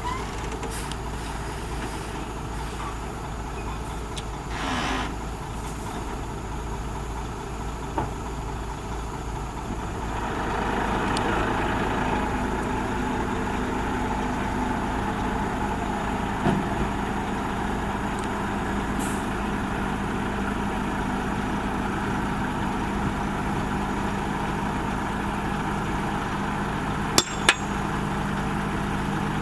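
Heavy diesel engine of a road-building machine running steadily. It grows louder about ten seconds in, as if working harder. A short hiss comes about five seconds in, and a few sharp knocks, two close together near the end.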